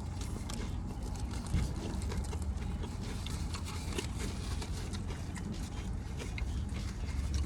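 A person chewing a bite of a veggie sub on jalapeño bread, with scattered short mouth clicks over a steady low hum.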